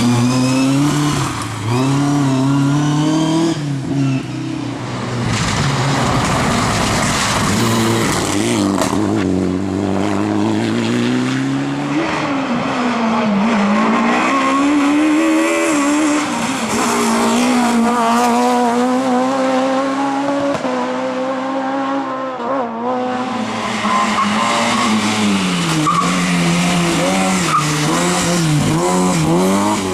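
Rally cars driven hard on a special stage: engines revving up and down through gear changes and lifts, with tyres squealing and skidding through corners. The sound changes abruptly a few times as one car follows another.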